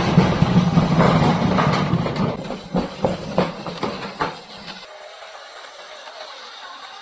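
A motor running with a steady low hum and clattering knocks, which cuts off suddenly about five seconds in, leaving a faint hiss.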